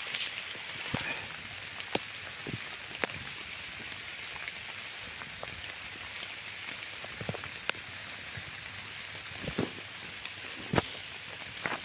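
Steady rain falling on leaves and the forest floor, with scattered single drops tapping sharply close by.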